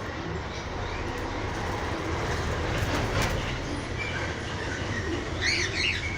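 A steady rumbling noise that swells toward the middle, with a few short bird chirps near the end.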